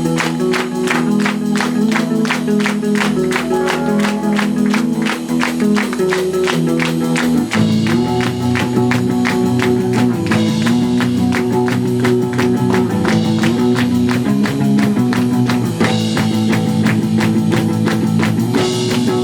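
Live band playing an instrumental passage: held guitar chords that change every couple of seconds over a steady, fast drum beat. The band gets fuller and heavier in the low end about seven seconds in.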